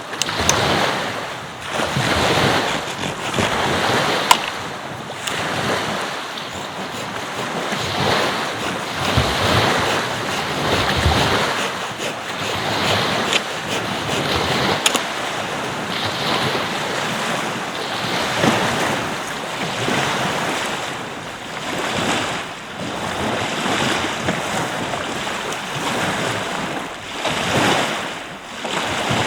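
Ocean surf breaking and washing up the beach, swelling and fading every couple of seconds, with wind buffeting the microphone and a few sharp clicks.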